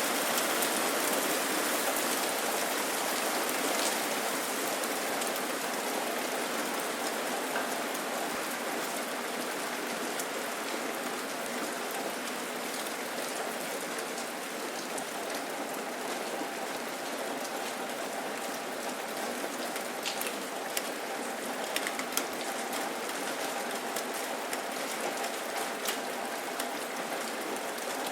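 Steady rain falling, an even hiss with scattered sharp drip ticks, more of them in the second half.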